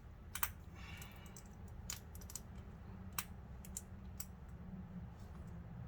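A handful of light metallic clicks and taps, spaced about a second apart, from tools and brake parts being handled. A low steady hum runs underneath.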